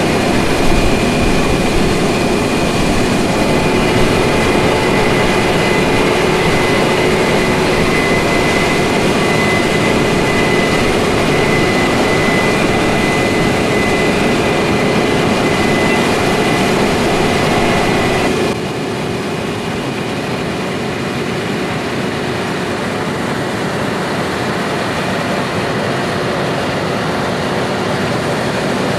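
Heavy diesel harvest machinery running steadily, with a high mechanical whine over the engine noise. About two-thirds of the way through the sound drops abruptly and turns duller, and the whine is gone.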